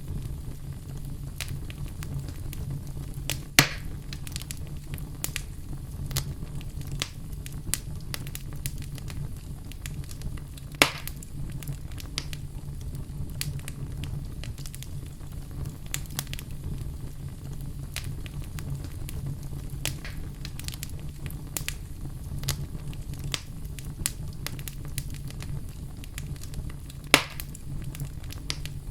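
Wood fire burning in a fireplace: a steady low rumble of flames with scattered crackles, and three louder pops from the burning logs.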